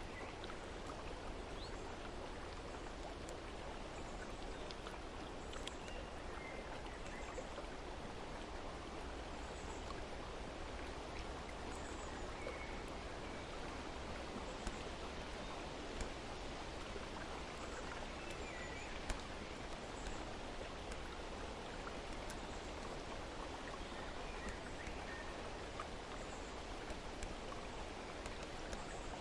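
Steady rush of flowing water, like a stream, with faint short bird chirps scattered throughout and a couple of sharp ticks about halfway through.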